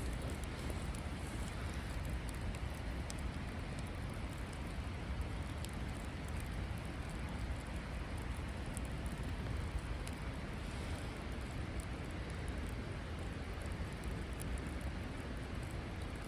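Wood campfire burning: a steady hiss with scattered faint crackles and pops, over a steady low rumble.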